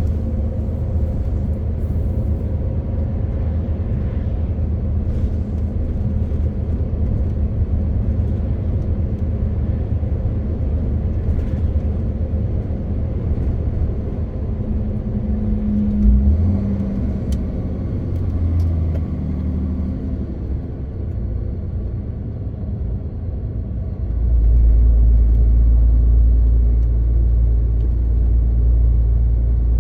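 MAN TGX 18.520 truck's inline-six diesel engine running on the move, with steady low road rumble. About halfway through, the engine pitch shifts briefly. From about three-quarters through, the low rumble becomes much louder.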